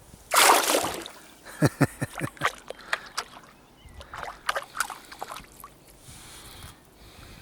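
A single loud splash of water about half a second in, followed by scattered light clicks and knocks.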